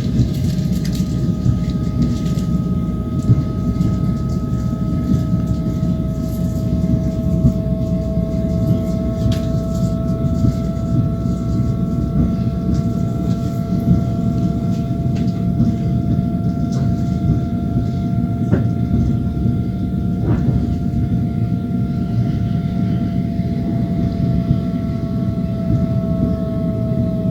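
Passenger train's wheels running on the rails, heard from inside the carriage: a steady dense rumble with a steady high whine over it that drifts slowly in pitch, and a few faint clicks.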